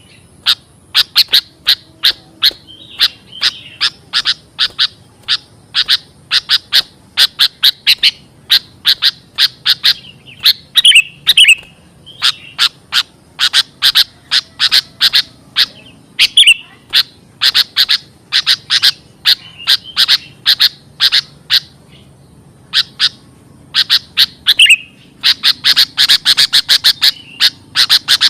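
Sooty-headed bulbul calling in rapid series of short, sharp chirps, loud and in bursts broken by brief pauses, with a few slurred warbling notes mixed in: a lure call for bulbuls.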